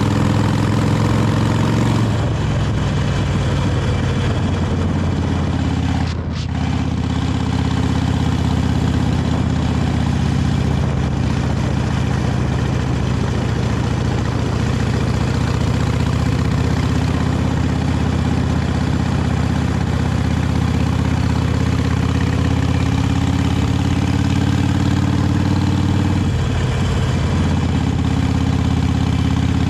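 Harley-Davidson 883 Iron's air-cooled V-twin on its stock exhaust, running steadily as the motorcycle is ridden. The engine note dips and breaks briefly about six seconds in and shifts again near the end.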